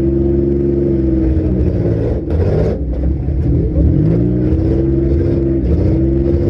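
Compact-car demolition derby engines revving, the pitch climbing and falling back several times, with a brief dip in the sound about two seconds in.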